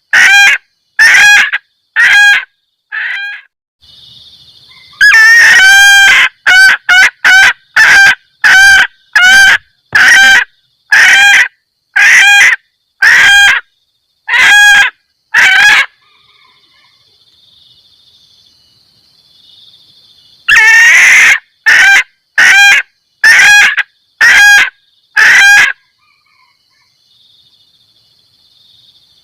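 Female junglefowl giving loud, repeated 'kek-kek' cackling calls, about one a second in three bouts with pauses between; the hen's mating call that draws a male. A faint steady high insect whine fills the gaps.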